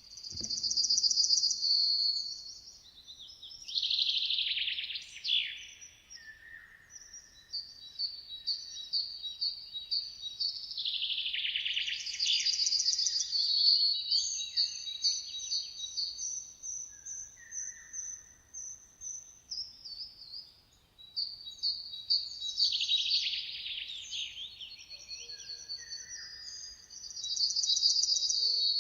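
Songbirds singing: loud, high-pitched trilled phrases return roughly every ten seconds, with runs of quick repeated chirps between them.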